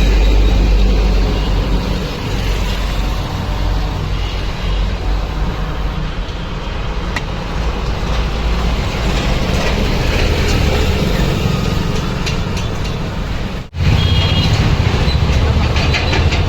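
Steady low rumble of motor-vehicle engines and road traffic. It drops out abruptly for a moment near the end.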